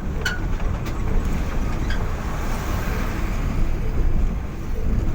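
Road vehicle driving, with a steady low engine and road rumble. A few light clicks come in the first two seconds, and a swell of higher tyre or wind hiss in the middle.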